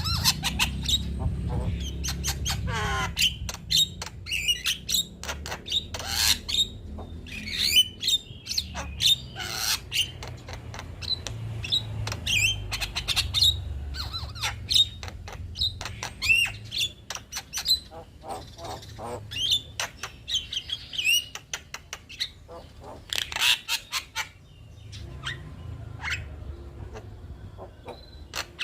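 Male Javan myna (jalak kebo) singing a fast, varied song of short whistles, sliding notes, sharp clicks and harsh squawks, with a few brief pauses. A low rumble runs underneath.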